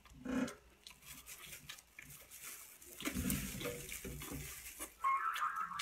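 Wet chewing and mouth sounds of a person eating spicy skewered meat strips, with scattered short clicks and a few brief louder bursts.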